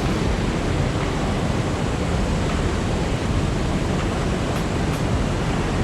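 Creek waterfall pouring into its pool: a steady, unchanging rush of water.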